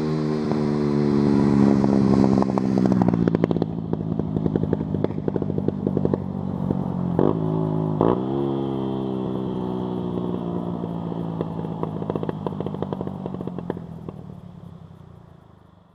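Yamaha YZF-R125's 125 cc single-cylinder four-stroke running through an Arrow racing header and Darkline silencer with no dB-killer. Its pitch falls over the first few seconds as the revs drop. Two quick throttle blips follow about seven and eight seconds in, then the engine fades away.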